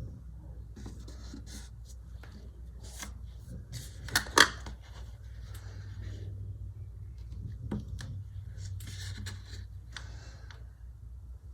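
Paper and sticker sheets being handled, peeled and pressed down in irregular light rustles and taps, with two sharp clicks close together about four seconds in. A steady low hum runs underneath.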